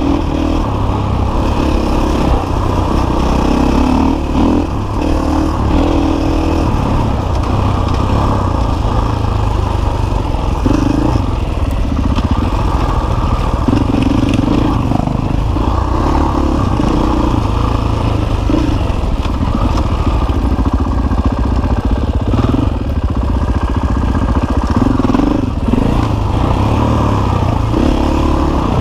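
KTM EXC enduro motorcycle's single-cylinder four-stroke engine running on a bumpy dirt trail, the throttle opening and closing every second or two, with the bike rattling over the ground.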